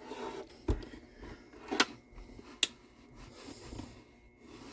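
Soft handling noise from work on a wooden mandolin body, with three short knocks and clicks spread over the first three seconds.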